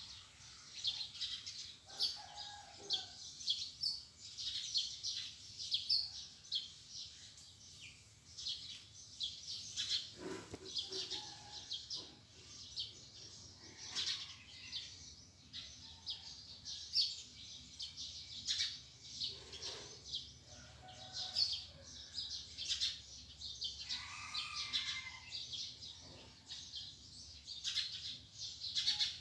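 Several small birds chirping and singing in quick, overlapping short notes, with a few lower calls mixed in now and then.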